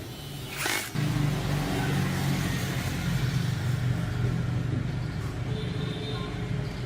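Hair dryer switched on about a second in, its motor and fan then running steadily with a low hum under the rush of air.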